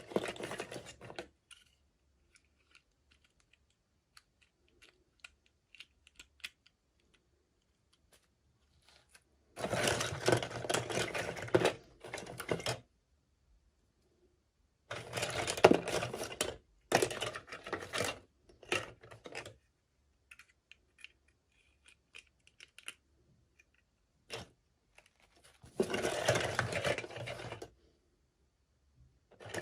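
Plastic toy packaging crinkling and rustling while being handled, in bursts of one to three seconds: about five of them, with quiet gaps and a few faint clicks between.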